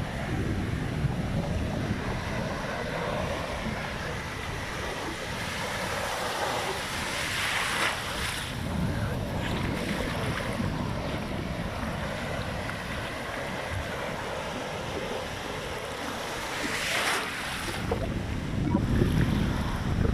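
Big sea waves breaking, a steady rushing surf with two louder breakers about eight and seventeen seconds in. Wind buffets the microphone with a low rumble.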